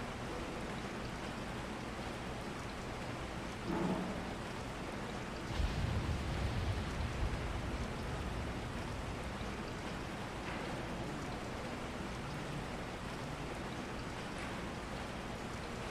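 Steady rain, an even hiss throughout. There is a brief sound about four seconds in, and a low rumble starting a little later that lasts a few seconds.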